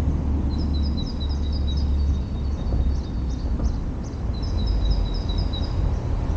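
A small songbird singing two runs of quick, high repeated notes, the second starting about four seconds in, over a steady low rumble of wind on the microphone and street traffic.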